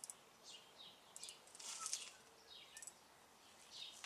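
Faint bird chirps: a scattering of short, falling calls over near-silent background.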